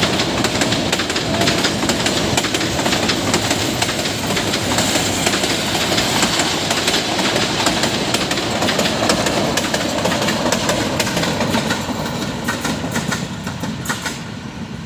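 Metre-gauge passenger train coaches running past, wheels clattering steadily on the track. The sound fades over the last few seconds as the train draws away.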